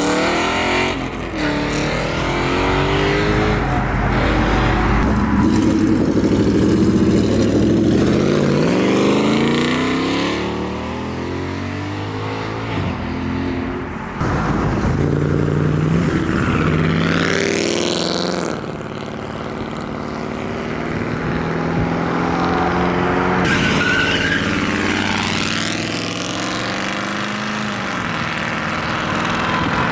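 Performance cars with loud modified exhausts pulling away one after another under hard acceleration, their engines revving up and shifting through the gears, with sudden changes from one car to the next.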